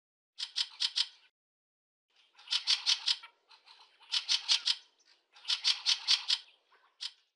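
Fieldfare giving its harsh chattering 'chack-chack' call: four quick runs of four or five rasping notes, then a single note near the end.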